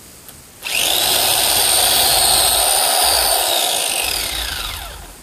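Electric chainsaw motor starts suddenly under a second in and runs at full speed with a high whine; near the end the whine falls in pitch and fades as the motor winds down.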